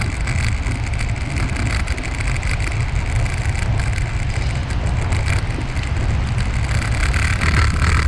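Wind buffeting the microphone of a camera carried on a moving bike: a steady low rumble with a constant hiss of movement over it, a little brighter near the end.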